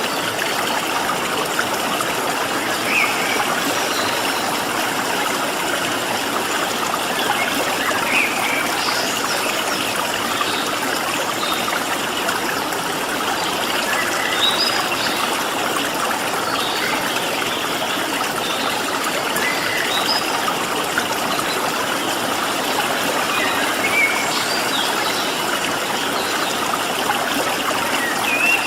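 Steady rush of a flowing stream, with scattered short chirps of small birds above it.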